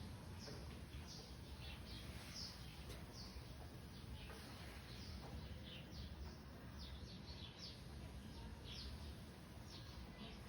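Small birds chirping: many short, high chirps that slide downward, scattered irregularly over a low, faint rumble.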